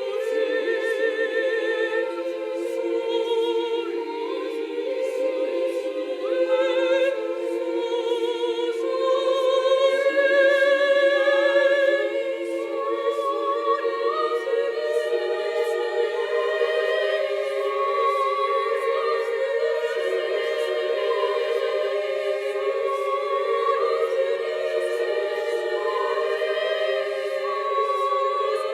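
Women's choir singing in parts, with many voices holding sustained notes with vibrato, swelling loudest about ten seconds in.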